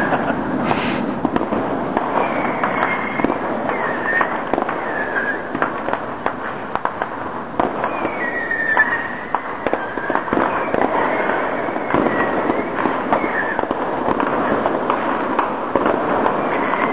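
Many distant fireworks, consumer mortars among them, going off in a dense, unbroken stream of pops and crackles.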